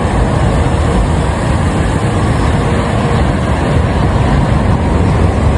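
Strong wind blasting the microphone during tornado footage: a loud, steady, rumbling rush with no breaks.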